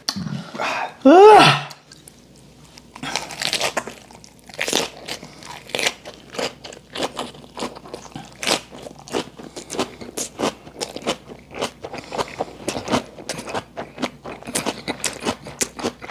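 A person chewing a leaf wrap of raw yellowtail sashimi right at a handheld microphone: crisp crunching bites, several a second, mouth-close. About a second in there is a short voice sound that rises and falls in pitch.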